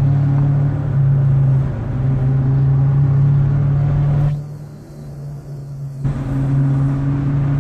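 Car engine heard from inside the cabin, running with a steady low drone under throttle; it eases off for a couple of seconds just past the middle, then picks up again.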